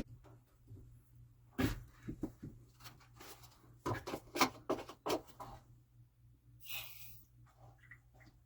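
Scattered knocks and clunks of things being handled while working on the pump plumbing, with a low steady hum underneath and a short hiss near the end.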